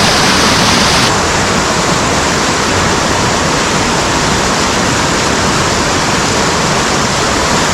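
Loud, steady rush of a mountain stream's fast water pouring over rocks close to the microphone. About a second in, the sound turns abruptly a little duller.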